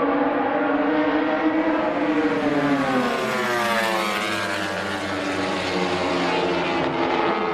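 High-revving racing engine running hard. Its pitch shifts: a low note drops about two and a half seconds in, while higher notes climb over the following couple of seconds.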